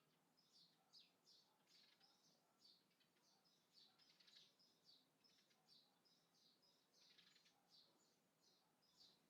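Small birds chirping: a faint, continuous run of short high chirps, about two or three a second.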